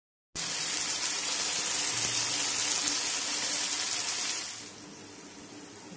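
Onion, green chilli and mourola fish curry sizzling in a wok, a steady hiss that drops to a much quieter sizzle about four and a half seconds in.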